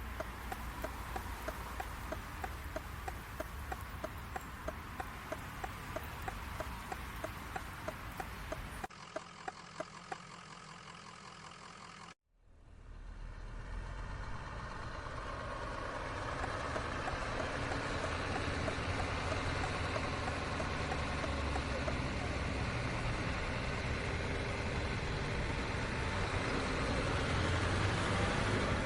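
Scania truck cab noise: the engine running while a turn-signal indicator ticks about three times a second. After a brief dropout the indicator stops and the engine and road noise swell steadily as the truck gets under way.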